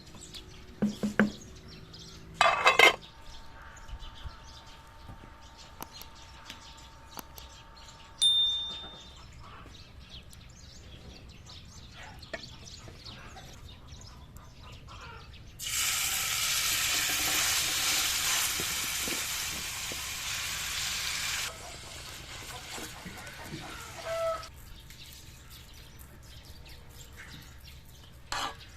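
Chickens clucking and calling at intervals, with a steady hiss about halfway through that starts abruptly, lasts about six seconds and stops abruptly.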